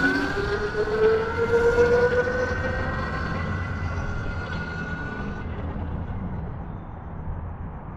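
48-volt electric dirt bike's motor whining under acceleration in mode 3: the pitch rises, then levels off as the bike moves away and fades, the whine dying out about five and a half seconds in.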